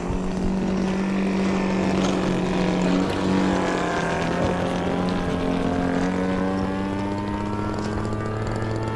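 Small gasoline engine of a large RC model airplane running steadily, its pitch drifting slightly.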